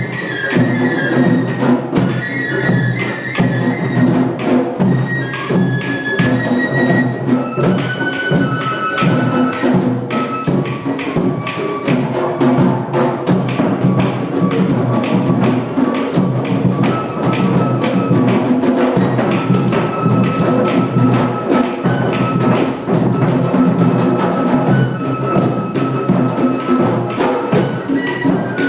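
Group drumming session: many hand drums and hand percussion playing a dense, steady rhythm, with a flute-like instrument holding long notes over it.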